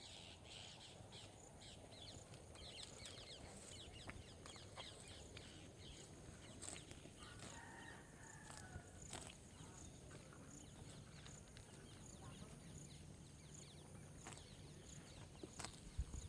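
Faint chicken clucking, most clearly from about seven to nine seconds in, over a steady soft patter of light rain with scattered small ticks.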